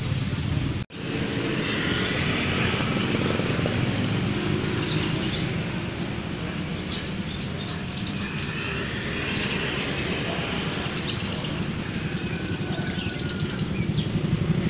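Many caged birds chirping and twittering over a steady background din. From about eight seconds in, a dense run of rapid high chirps builds. The sound drops out for an instant about a second in.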